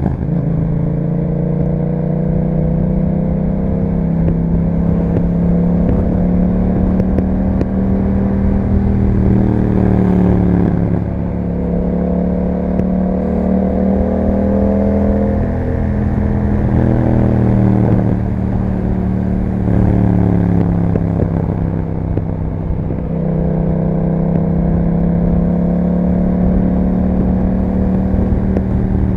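Yamaha MT-07's parallel-twin engine through an aftermarket Akrapovič exhaust, being ridden: its pitch climbs steadily under throttle and falls back several times, around a third of the way in, in the middle and again near the end.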